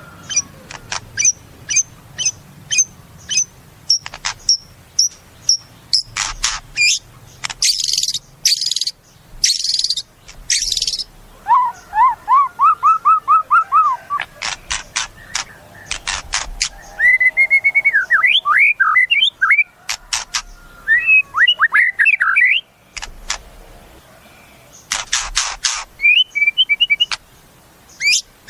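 White-rumped shama (murai batu) singing a long, varied song: runs of sharp high whistled notes, rapid buzzy rattles, a quick series of rising notes and looping warbled phrases.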